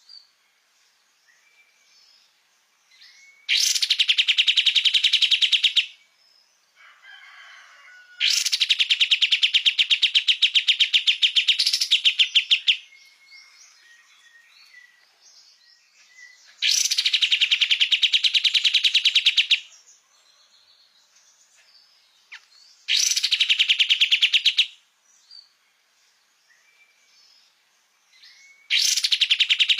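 A kapas tembak songbird singing in gacor form: five long, rapid-fire trills of fast repeated notes, each lasting two to four seconds, with short pauses and faint chirps between them.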